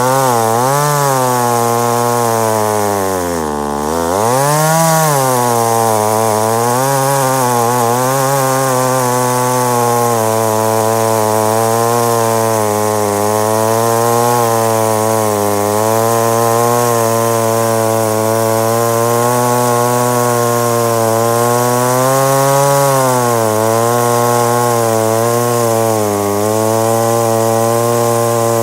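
1971 McCulloch 10-10 Automatic chainsaw's single-cylinder two-stroke engine running at high revs. It dips briefly and picks back up about three seconds in, then holds high with a slightly wavering pitch.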